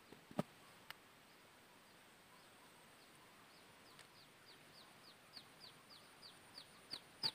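A bird calling a run of short, high falling notes that begin faint about three seconds in and grow louder and quicker. Two light clicks come in the first second.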